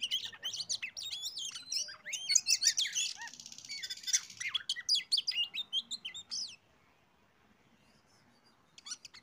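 Oriental magpie-robin (kacer) song: a rapid run of varied, high whistles and chirps with a harsh buzzy rasp near the middle. It stops about six and a half seconds in and starts again just before the end.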